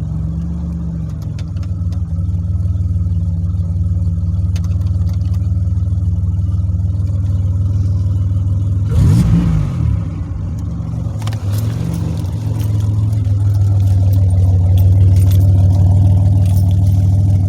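2007 Pontiac Grand Prix GT's supercharged 3.8-litre V6 running just after being restarted, with a brief rev up and back down about nine seconds in. It is running again after its melted fuel-pump fuse was replaced.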